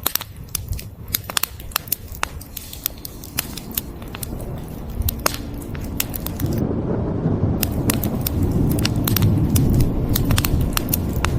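Wood fire crackling, with many sharp pops. About six seconds in, a low rumble of thunder swells up under the crackle and grows louder.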